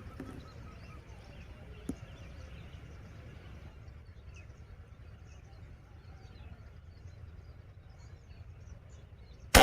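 Quiet outdoor background with faint bird chirps, then near the end a single sharp report from a PCP air rifle firing a slug.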